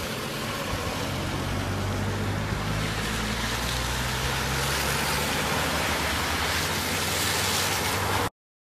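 Floodwater rushing in a steady loud wash, with a vehicle engine humming low underneath. The sound cuts off abruptly near the end.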